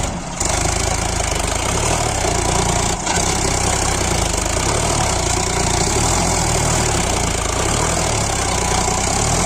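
Sonalika DI 745 tractor's diesel engine running steadily with a low, pulsing beat.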